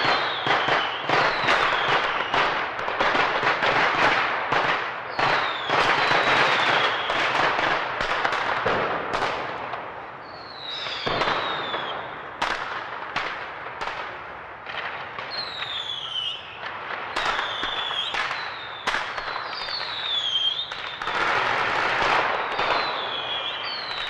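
Fireworks going off in quick succession: rapid bangs and crackling, with many short whistles that fall in pitch, thinning a little in the middle and building up again near the end.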